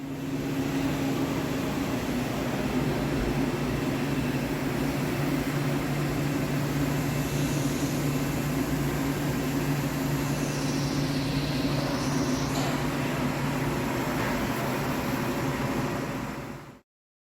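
Heavy Hankook CNC lathe running with a steady low hum, a high whine dipping and rising again about ten to twelve seconds in. The sound cuts off abruptly near the end.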